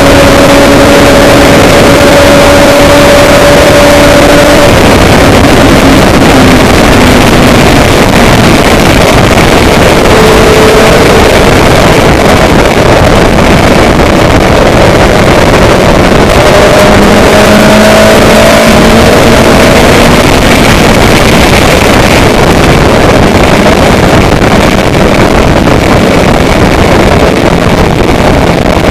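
Loud, steady noise of a moving vehicle, with a faint hum that shifts in pitch now and then.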